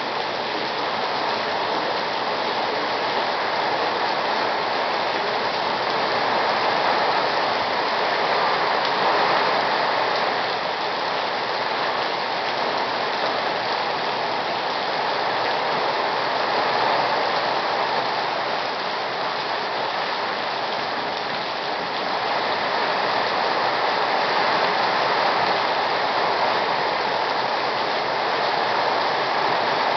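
Torrential rain pouring down on a flooded paved parking lot and parked cars: a dense, steady hiss that swells and eases a little.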